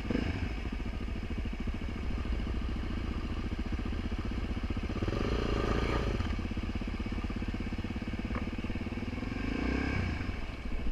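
Suzuki DR-Z400's single-cylinder four-stroke engine running steadily, its revs rising briefly about halfway through and again near the end.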